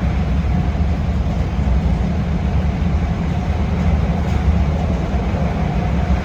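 CTA Red Line rapid-transit train running, heard from inside the car: a steady low rumble of wheels on rail.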